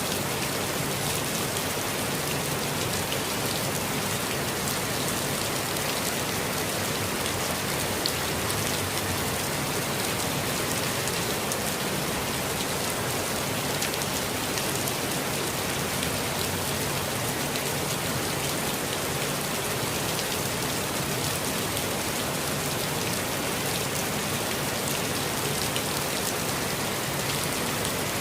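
Steady rainfall, with fine drop patter on leaves and ground over a constant hiss.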